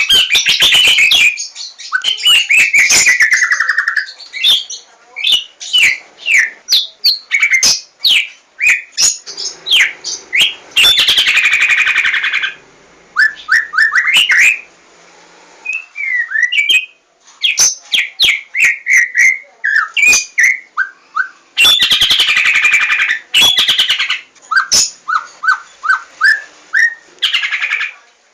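White-rumped shama (murai batu) singing a varied run of loud whistled phrases, with quick sweeping and falling notes and several fast, buzzy rattles mixed in.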